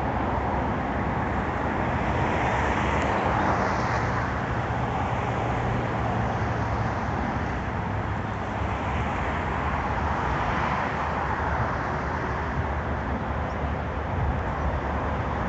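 Steady motor-vehicle engine noise with outdoor background noise; no single event stands out.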